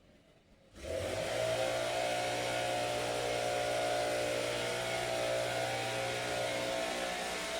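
A motor or engine starts suddenly about a second in and runs at a steady pitch, with a low hum that drops out near the end.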